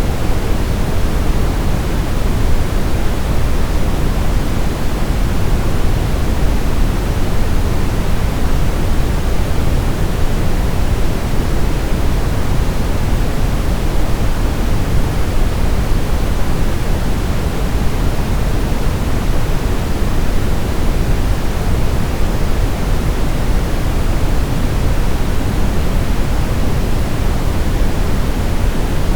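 Brown noise: a steady, even hiss weighted heavily toward the low end, a deep rumble with much less treble, unchanging throughout.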